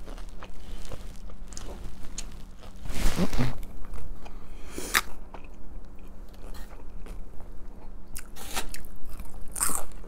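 Close-miked eating: chewing and crunching of food in the mouth, irregular and uneven, with a sharp click about five seconds in.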